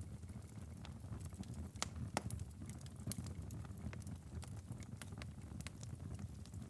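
Wood fire crackling in a fireplace: irregular sharp pops and snaps over a low steady rumble of burning logs, with two louder pops about two seconds in.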